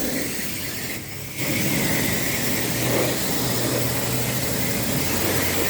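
Self-serve car wash wand spraying water at high pressure, a steady hiss that starts about a second and a half in over a steady low hum.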